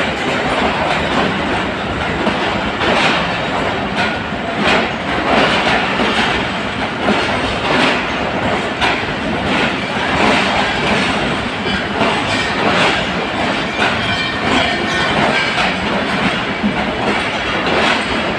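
Passenger coaches of an arriving train rolling past along the platform, their wheels clacking irregularly over the rail joints over a steady rumble.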